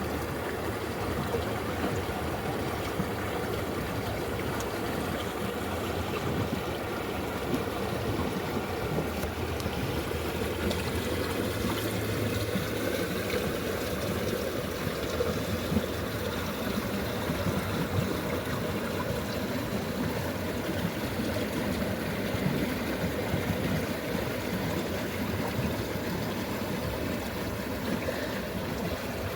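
Running water, like a small stream flowing and trickling steadily with light gurgles.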